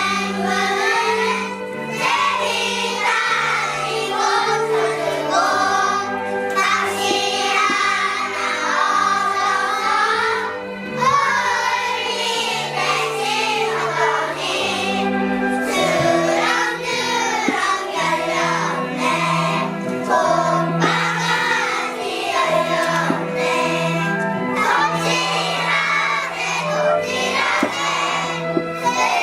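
A group of young kindergarten children singing a song together in unison over an instrumental accompaniment with a bass line that moves note by note.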